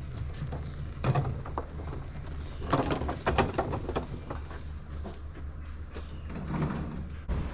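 A series of irregular knocks and clatters in a barn, the busiest stretch about three seconds in, over a steady low hum.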